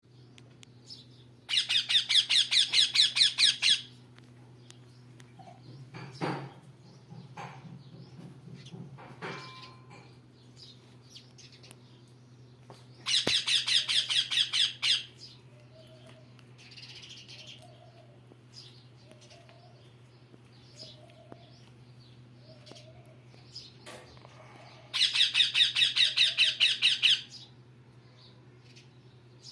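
Parrot calling in three loud runs of rapid, repeated high-pitched notes, about five a second, each run lasting around two seconds, with quieter pauses between them.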